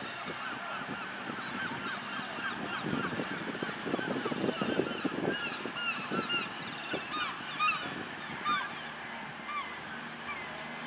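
Birds calling: a dense flurry of many short, hooked calls overlapping one another, busiest in the middle and thinning out towards the end, over a low background rumble.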